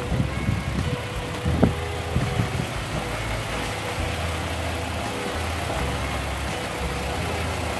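Freshly rebuilt 3.5-litre V6 engine of a 2011 Hyundai Santa Fe idling steadily. A few thumps come in the first two seconds, the loudest a sharp knock about a second and a half in.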